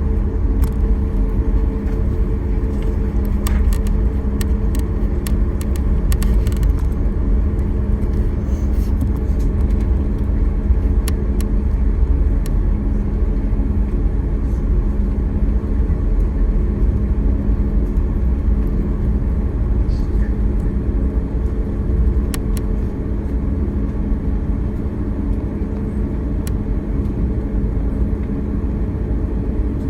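Jet airliner's engines heard inside the passenger cabin: a steady low rumble with a constant hum, not changing in pitch, and a few faint clicks and rattles.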